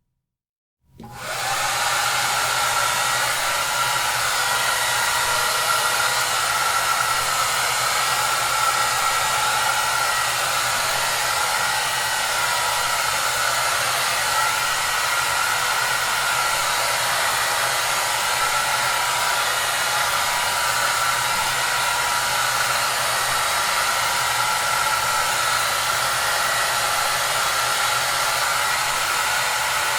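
Hair dryer running steadily, a constant airy rush with a low hum underneath. It comes in about a second in, after a moment of silence, and builds up quickly to full strength.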